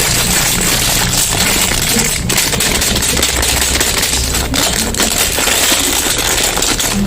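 Dense, continuous crackling and rustling of soap bar packaging being opened and handled, with a few sharper clicks.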